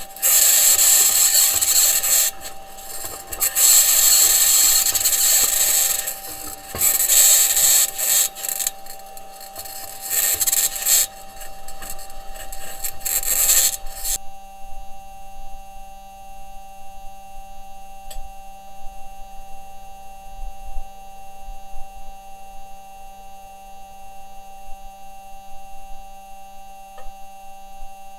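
Perseverance Mars rover driving: its wheels and suspension working over the ground, with a loud, high-pitched scraping that comes in several long stretches. About halfway through the scraping stops, leaving a steady electrical hum of several tones with a faint tick or two.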